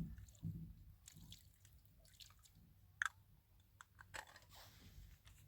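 Faint, sparse small clicks and soft wet sounds, with one sharper click about three seconds in.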